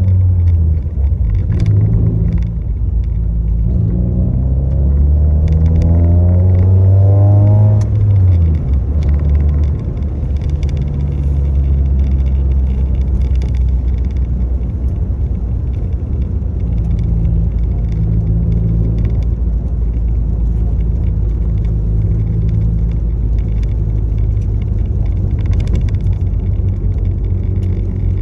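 Motor vehicle running with a heavy low rumble; the engine note climbs as it accelerates for about the first eight seconds, then settles into a steady drone while cruising.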